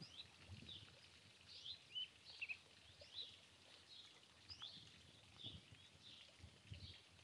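Small birds chirping faintly, short calls repeated over and over, against quiet open-country background noise.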